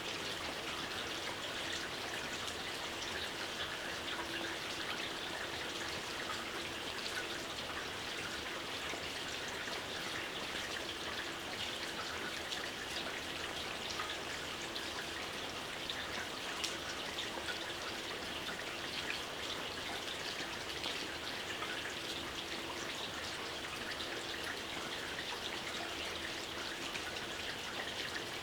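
Gentle rain falling steadily: a dense, even hiss of fine drops with many individual drop hits ticking through it.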